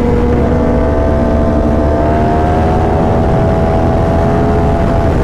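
Motorcycle engine running steadily under way, its pitch rising slightly and then holding, over a heavy low rumble of wind.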